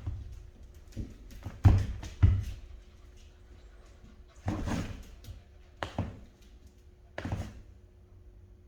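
Rottweiler puppies playing and scuffling on the floor: about six irregular thumps and knocks, spread unevenly through the few seconds.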